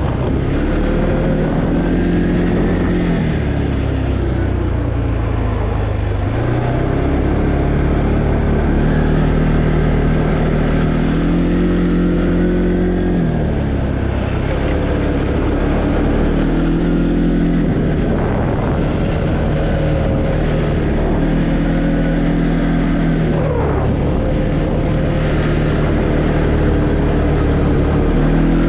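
2020 Arctic Cat Alterra 700 ATV's single-cylinder engine running under way. The engine note repeatedly rises and falls every few seconds as the throttle is opened and eased off on the trail.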